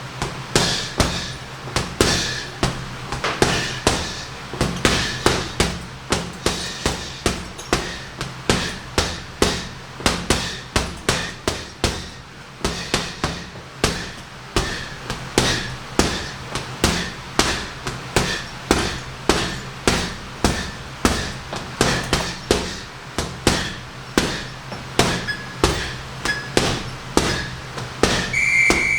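Gloved punches landing on a heavy sandbag in a steady stream, about two thuds a second with some quicker combinations. A short electronic beep, as from a round timer, sounds near the end.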